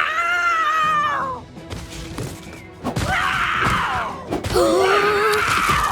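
Cartoon sound track: background music with a character's high, cat-like wordless cries and a few thuds.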